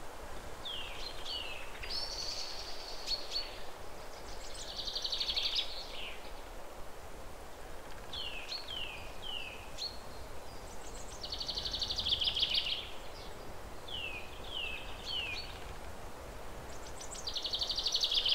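A songbird singing a repeated phrase: two or three quick down-slurred notes followed by a buzzy trill, several times over, above a steady outdoor background hiss.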